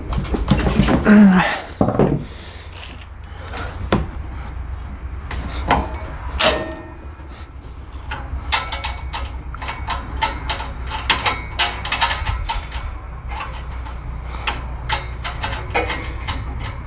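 Irregular metal knocks, clanks and scrapes with a brief ringing, from the John Deere X380 lawn tractor's muffler shield being bent by hand and the brush guard being worked into place. A steady low hum runs underneath.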